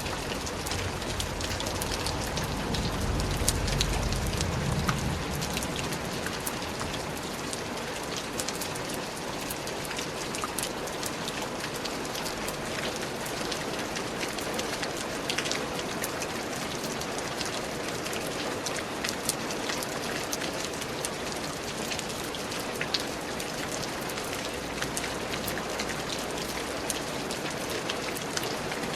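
Steady heavy rain with many individual drops striking close by. A low rumble swells for a few seconds near the start, then fades.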